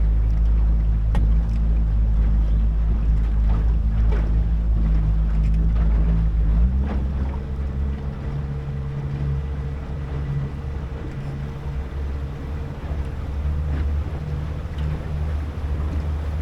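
Motorboat engine running steadily, its note changing and getting a little quieter about seven seconds in, with a few light knocks over the hum.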